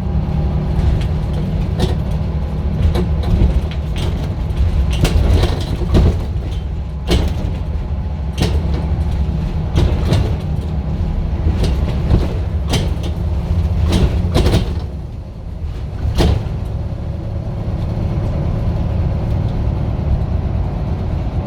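Scania bus engine running with a steady low drone, with frequent sharp rattles and knocks over it; the engine note eases off briefly about two-thirds of the way through.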